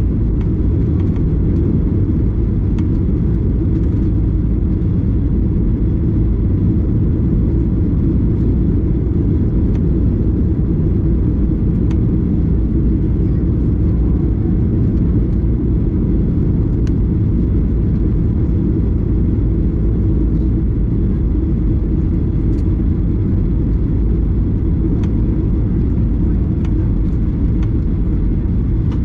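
Steady low rumble of engine and airflow noise inside an airliner's cabin, even throughout with no change in level.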